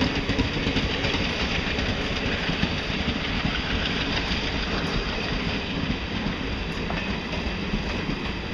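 Diesel-hauled intercity express train running on the rails: a steady, dense rumble of the locomotive and rolling stock with wheel clatter, easing slightly in the second half.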